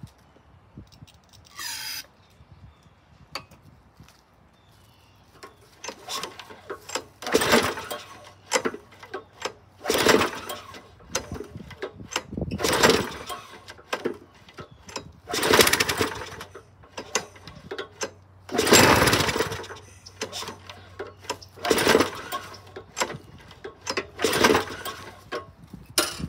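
A 2006 Craftsman 6 hp push-mower engine being pull-started over and over with its recoil starter, about seven pulls a few seconds apart. It turns over oddly and catches only briefly without running on. The blade, which would act as the flywheel weight, is missing.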